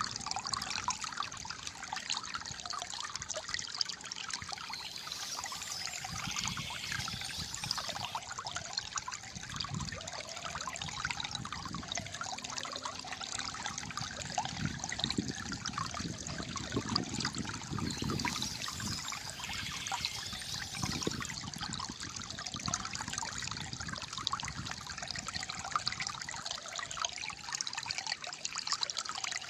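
Shallow flowing water trickling and gurgling steadily, a small stream running over stones.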